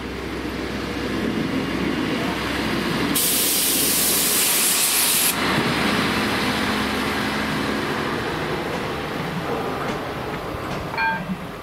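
Diesel passenger train passing through a level crossing, its running gear and engine sounding on the rails. A loud burst of hissing starts abruptly about three seconds in and cuts off about two seconds later.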